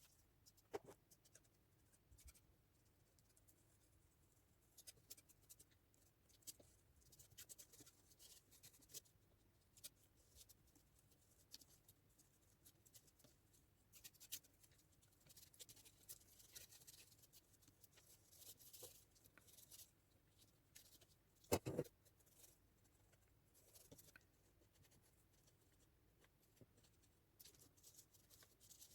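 Faint scraping and tapping of a palette knife working acrylic paint, irregular light scrapes and clicks, with one louder knock a little after twenty seconds in.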